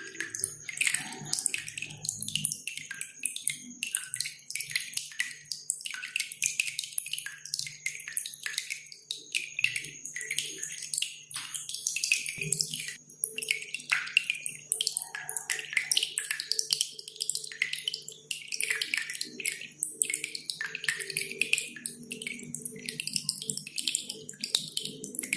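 Cililin songbird singing a dense, unbroken stream of sharp high chirps and trills, over a background of dripping water.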